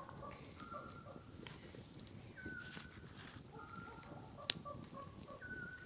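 Quiet eating sounds: soft crunching and mouth clicks from chewing crusty cooked meat and bread, with one sharper click about four and a half seconds in. A faint high tone repeats every second or two in the background.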